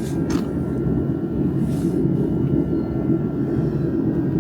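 A steady low engine rumble in the background, like a passing vehicle or aircraft, with two light clicks right at the start.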